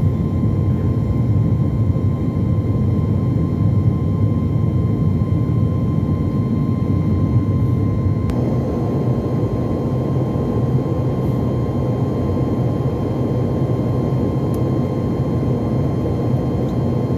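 Jet airliner cabin noise during takeoff: a steady, loud rumble of the engines and airflow, with a faint steady whine. There is a single click about eight seconds in.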